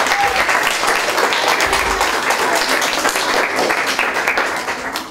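Audience applauding with dense, steady clapping that cuts off suddenly at the end.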